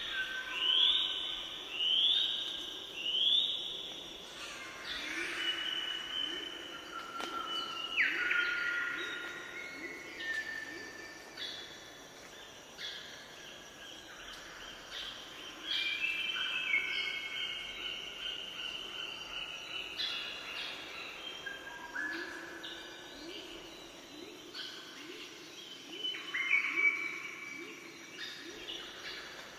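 Several birds singing at once, overlapping phrases of short repeated notes. In the first few seconds one bird repeats a note about once a second, the loudest part.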